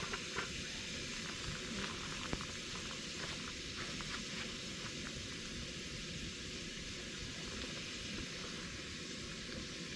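Food sizzling over a campfire: a steady hiss with scattered small crackles and pops, one sharper pop a little over two seconds in.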